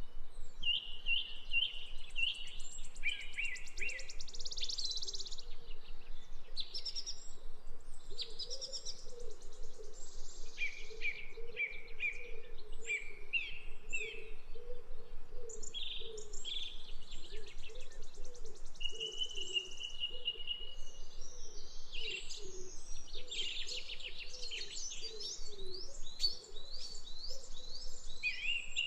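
Several songbirds singing and calling together: quick repeated chirps, trills and a held whistled note, with a softer low warbling underneath.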